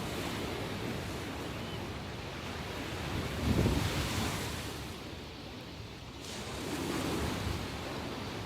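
Ocean waves breaking and washing on the shore, a steady surf with a louder wave about a third of the way in and another swell later, the sea still rough after a typhoon. Some wind on the microphone.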